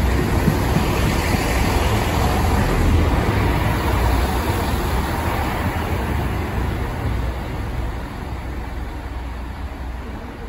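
Chiltern Railways diesel multiple unit running past along the platform: a steady diesel engine and wheel rumble that fades over the last few seconds.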